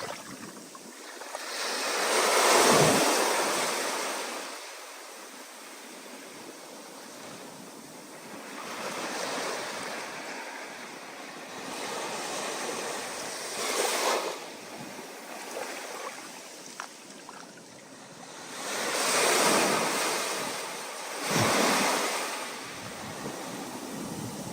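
Ocean waves surging and breaking in rough, stormy surf, each wave a rushing swell that rises and falls away. The biggest comes about three seconds in, with more about halfway through and two close together near the end.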